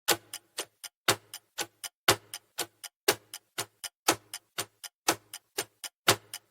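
Countdown timer sound effect: clock-like ticking, about four ticks a second, with a louder tick on each second.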